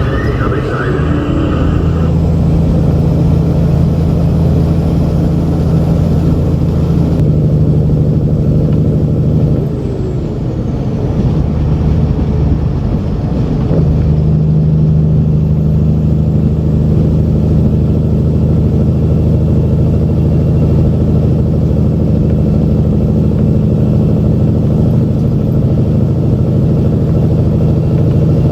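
Diesel semi-truck engine running steadily under load. About a third of the way through its note dips briefly and shifts pitch, then it settles back into a steady pull.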